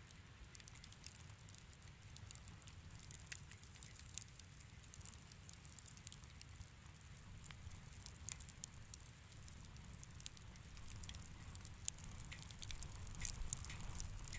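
Wood fire crackling in a fireplace: scattered sharp pops and ticks over a low steady rumble, the pops coming more often near the end.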